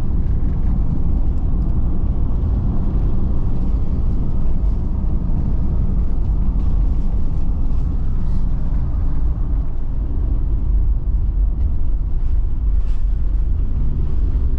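Auto-Trail motorhome being driven on the road: a steady low engine and road rumble heard from inside the cab.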